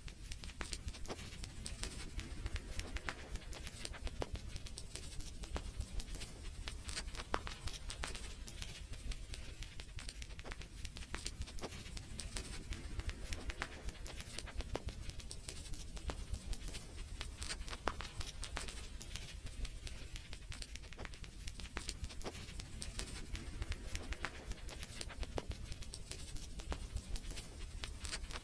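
Wood fire crackling steadily, with dense irregular sharp pops and snaps over a low rumble of the flames.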